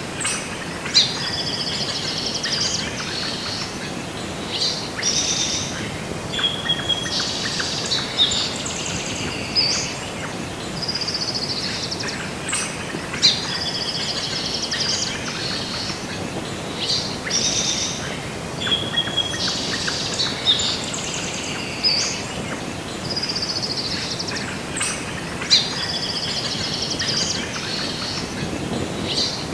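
Birds chirping and singing over a steady background hiss, the same sequence of calls repeating about every twelve seconds.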